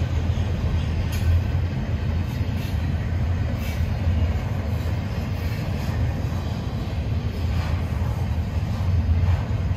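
Double-stack intermodal freight train rolling past: a steady low rumble of steel wheels on rail, with a few faint high-pitched clicks along the way.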